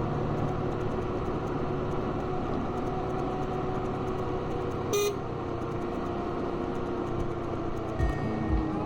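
Motorbike engine running while riding, with wind and road noise. A short horn toot sounds about halfway through.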